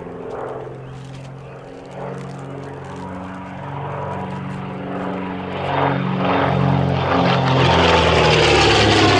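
de Havilland DH.88 Comet racer's twin de Havilland Gipsy Six piston engines running in flight, growing steadily louder as the aircraft comes in. The engine note starts to drop in pitch near the end as it passes.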